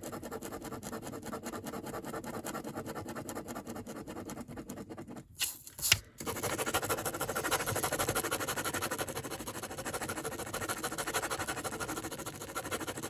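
Drawing tool scratching rapidly back and forth on paper, coloring in a filled area. The strokes pause briefly a little past five seconds in, with a single sharp tap, then resume.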